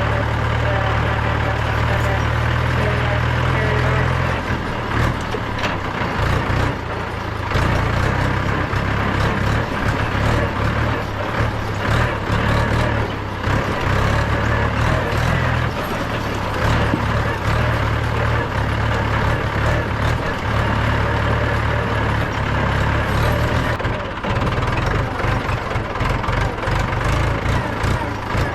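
Mahindra 475 DI tractor's four-cylinder 2.7-litre diesel engine running steadily while driving, with rattles and knocks from the machine. The engine note shifts for a moment about four to five seconds in.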